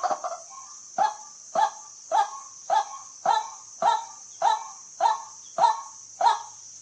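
White-breasted waterhen calling: a fast chatter dies away at the start, then a steady series of loud, short 'kwak' notes, about two a second, each one falling in pitch. A steady high hiss runs behind the calls.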